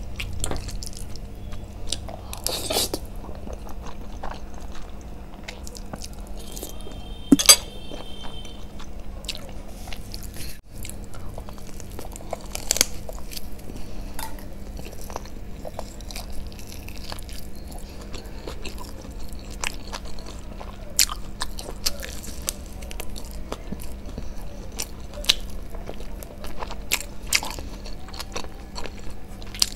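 Close-miked eating: chewing and biting mouthfuls of spicy Korean instant noodles, with many short wet clicks and smacks. One sharper, louder sound comes about seven and a half seconds in.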